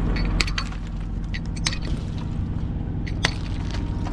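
Heavy truck's diesel engine idling steadily, with a few sharp clicks and crackles over it.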